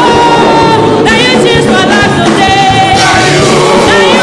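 Live gospel worship music: singing over band accompaniment, the voice holding long notes with slides between them.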